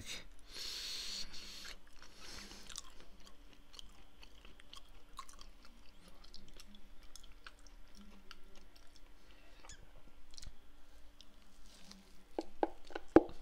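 Close-up wet chewing and mouth clicks of a person eating a strawberry muffin, with a breathy hiss at the start and a run of sharper clicks near the end as another bite is taken.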